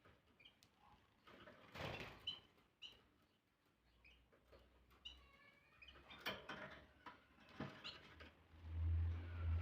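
Canary bathing: scattered small splashes and flutters in shallow water, with a few short, faint chirps, including a quick run of them about five seconds in. A low hum comes up near the end.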